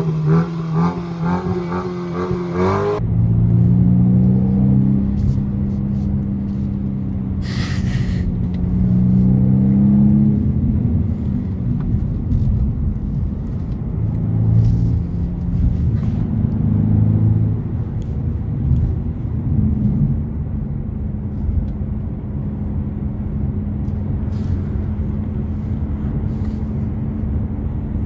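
BMW M235i xDrive's turbocharged 2.0-litre four-cylinder, heard first at the rear exhaust tips running with a rich, shifting engine note. It then drones from inside the cabin while driving, rising and falling in pitch with acceleration and gear changes over steady tyre and road noise. A brief hiss comes about eight seconds in.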